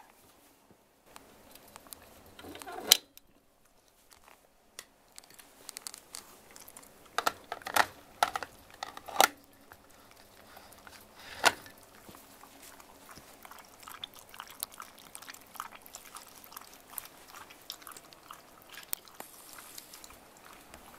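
Shiba Inu crunching ice cubes from its iced water: irregular sharp crunches and clicks, with the loudest few about 3, 8 to 9 and 11 seconds in.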